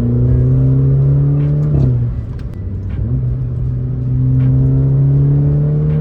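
Alfa Romeo Giulia's 2.0-litre turbocharged four-cylinder accelerating hard through a straight AFE axle-back exhaust with resonator delete, with a deep engine note climbing steadily in pitch. About two seconds in the pitch drops at an upshift and the sound eases briefly, then it climbs again through the next gear.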